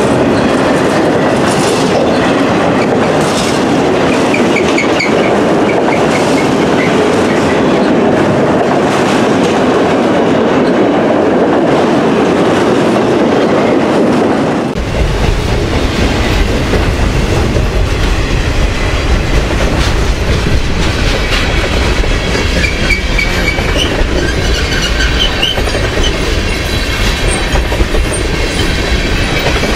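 Freight train cars (autoracks and tank cars) rolling past at restricted speed: a steady rumble of steel wheels on rail with clickety-clack over the joints and brief faint wheel squeal. About halfway through, the sound changes abruptly to a deeper, heavier rumble.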